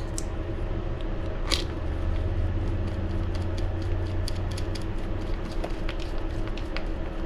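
Light scattered clicks and ticks of small screws being driven down through wing buttons into locking nuts on an RC buggy wing, the sharpest about one and a half seconds in, over a steady room hum from an air conditioner.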